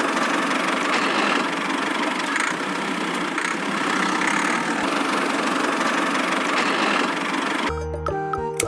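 A miniature DIY tractor's small motor runs steadily with a busy mechanical whir. About a second before the end it gives way to music.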